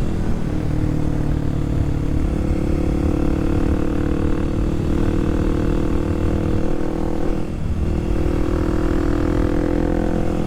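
Kawasaki KLX300SM supermoto's single-cylinder engine running at road speed, heard from the rider's position with wind rumble on the microphone. The engine note steps up about two seconds in and dips briefly about seven and a half seconds in.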